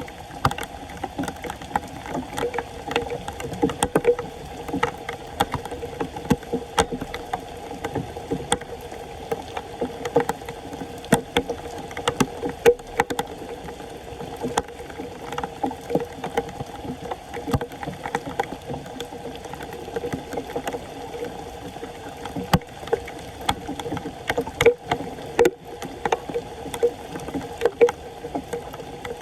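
Floodwater sloshing and splashing at a clogged street storm drain, with frequent small knocks and scrapes throughout.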